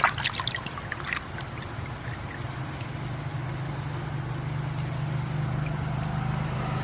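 A motor running steadily with a low hum that grows slightly louder, with a few short knocks or splashes in the first second.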